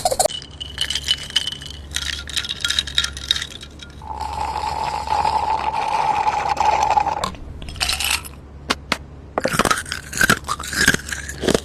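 Close-up eating sounds: crunching, clicking and scraping, with a steadier scraping stretch from about four to seven seconds in.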